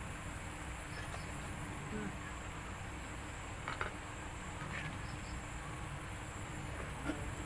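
Faint eating sounds from boiled blue swimming crab: a few short clicks and cracks of shell, about halfway and near the end, over a steady low background hum.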